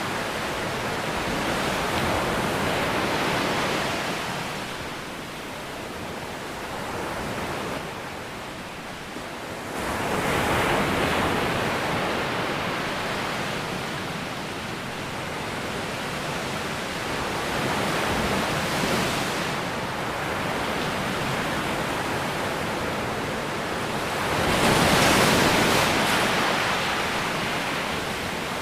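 Ocean waves breaking and washing on a shore, a steady rush of surf that swells and ebbs, with the strongest wave breaking about 25 seconds in.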